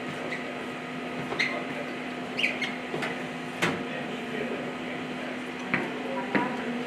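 Drinking fountain running during a taste test: a steady hiss over a low hum, with half a dozen sharp clicks and knocks, several of them close together about one to four seconds in and two more near the end.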